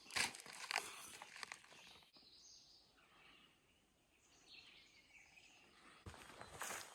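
Faint outdoor ambience with a few faint bird chirps, after a few soft knocks and rustles at the start. Footsteps on a trail begin near the end.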